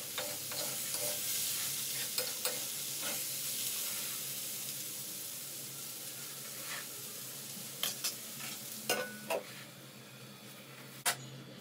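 Diced potatoes sizzling as they fry in oil in a kadai, with a metal spoon stirring and scraping against the pan. Metal clinks come in a cluster later on as the kadai is covered with a metal lid. A single sharp clink near the end is the loudest sound, and the sizzle fades over the last couple of seconds.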